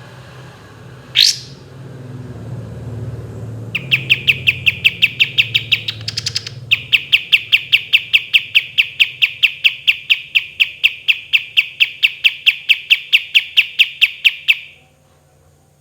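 Kapas tembak songbird singing: one quick rising whistle, then a long, fast roll of sharp repeated notes, about five a second, broken briefly by a higher buzzy trill, ending abruptly.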